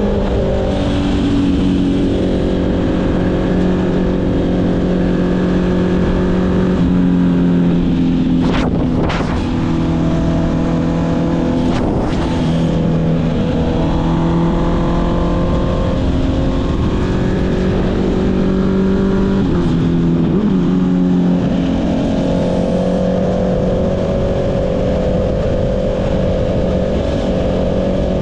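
Honda CB650R inline-four motorcycle engine through an Akrapovic exhaust, running under load on the road with its note dropping in pitch a few times as it shifts and slows, over steady wind rush on the microphone.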